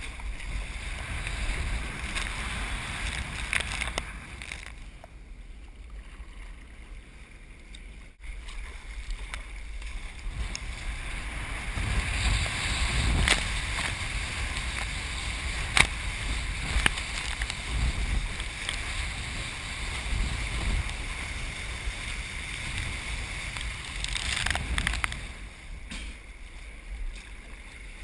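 Wind buffeting the microphone over the steady rush of breaking surf, swelling and easing, with a few sharp knocks.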